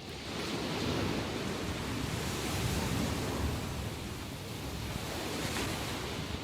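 Sea waves breaking on the shore after a typhoon, the surf swelling to a louder wash about a second in and holding through the middle, with another smaller wave near the end.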